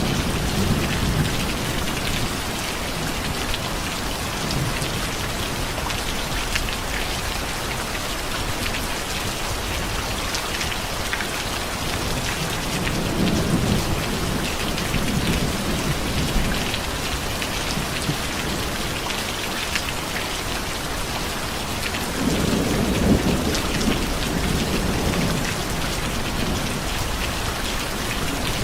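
Steady heavy rain falling and pattering on a surface, with low rumbles of distant thunder rolling in twice, about halfway through and again near the end.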